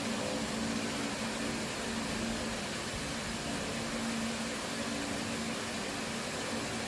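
A steady machine hum with two low tones over an even hiss, unchanging throughout.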